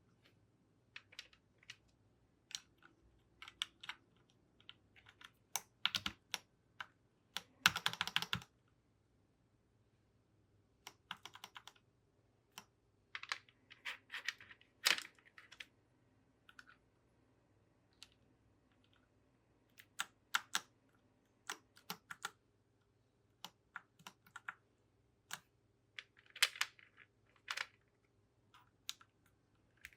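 Plastic keycaps clicking onto a mechanical keyboard's switches as the keyboard is fitted with new caps. The clicks come irregularly in small clusters with pauses between them, and there is a longer burst of plastic clatter about eight seconds in.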